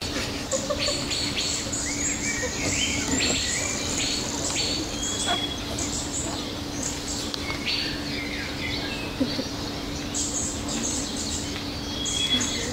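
Several birds chirping and singing in quick, overlapping short calls, over a steady low hum.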